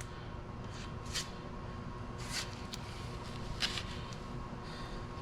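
A few short scrapes of a spreader skimming body filler onto a car door panel, over a steady low shop hum.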